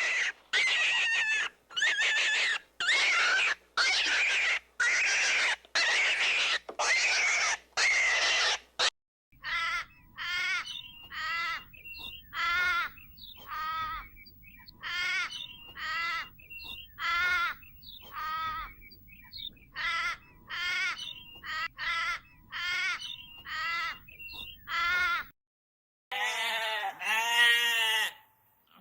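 Different animal calls one after another. First come about nine harsh calls roughly a second apart, then some twenty short repeated calls at a steady pace. Near the end, after a brief pause, a sheep starts bleating.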